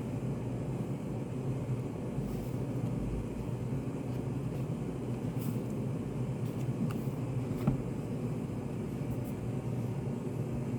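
Steady low rumble of study-cafe room ambience, with a few faint clicks and taps scattered through it.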